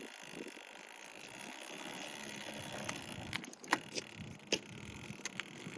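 Child's ride-on motorbike moving over the ground: a steady rolling rattle with several sharp clicks and knocks in the second half.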